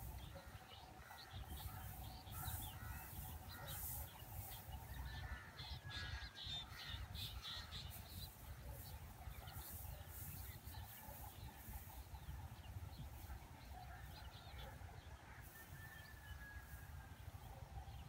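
Faint bird chirps and short calls, scattered throughout, over a steady low rumble.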